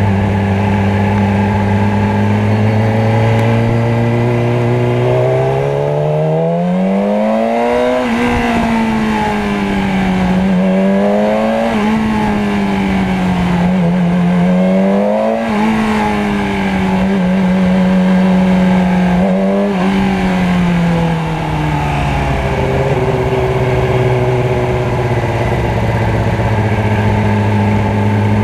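Motorcycle engine idling steadily, then revving up as it pulls away about five seconds in. Its pitch rises and falls several times before dropping back to a steady idle a little after twenty seconds in.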